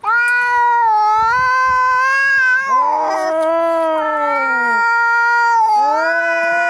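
Angry cats yowling in a fight: long, drawn-out caterwauls that waver and bend in pitch, with one call starting as another tails off, about three seconds in and again near six seconds.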